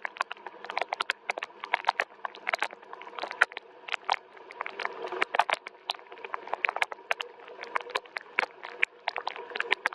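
Rain falling, with many separate drops tapping irregularly and sharply on a hard surface over a soft, steady hiss of rain.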